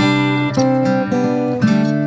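Background music: an acoustic guitar playing the intro of a song, with new notes or chords struck about every half second.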